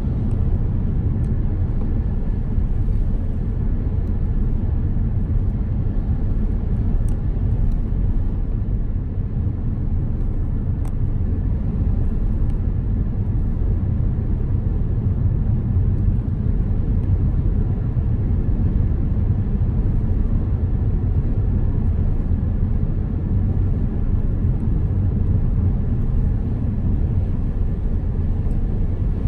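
Car driving along a road: a steady low rumble of tyres and engine with no change in pace.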